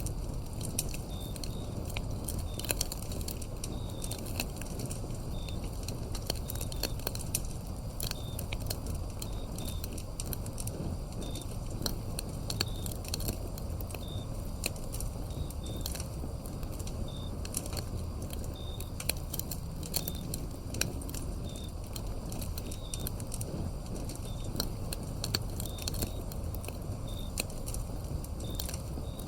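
Wood fire crackling, with frequent sharp pops and snaps over a low steady rumble of the flames. Crickets chirp in short high notes every second or so.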